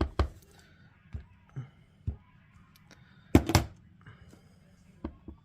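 Short, sharp taps and knocks on a craft desk as a small rubber stamp is inked and pressed onto cardstock, with a louder double knock about halfway through.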